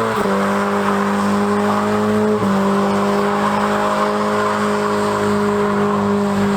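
Car doing a burnout: the engine is held at steady high revs while the spinning tyres squeal, with a brief dip in revs about two and a half seconds in.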